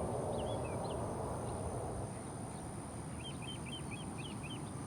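Small birds chirping in short, quick repeated notes, including a fast run of about five a little past halfway, over a steady low rushing noise.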